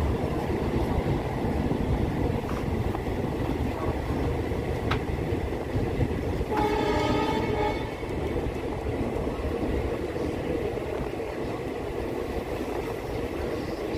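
Passenger train running steadily behind a WDG3A ALCO diesel locomotive, heard from a coach: a constant rumble of wheels on track. A train horn sounds once, about halfway through, for roughly a second.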